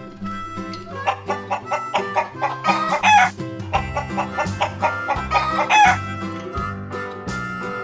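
Chicken clucking and two rooster crows, the loudest about three and six seconds in, over a background tune of harmonica and guitar.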